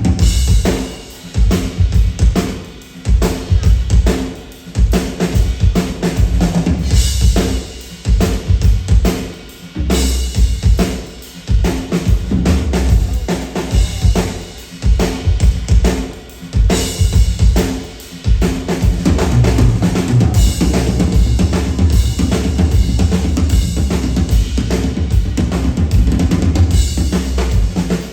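Live percussion performance: a dense, driving rhythm of heavy bass-drum beats and sharp snare-like hits, broken by brief pauses in the first half and running steadily through the second.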